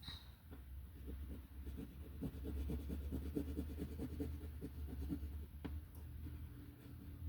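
Colored pencil scratching back and forth on paper in many quick strokes, thinning out near the end, over a low steady hum.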